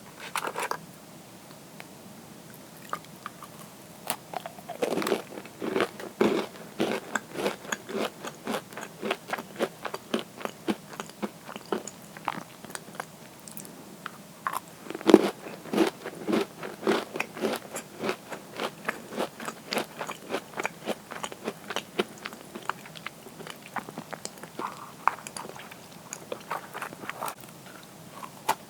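Crisp cookies being bitten and chewed close to the microphone: a dense run of crunches, several a second, with a loud bite about fifteen seconds in.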